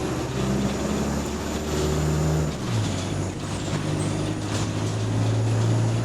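Diesel bus engine running while the bus is under way, heard from inside the passenger saloon. Its note steps down about halfway through, and there are light rattles near the end.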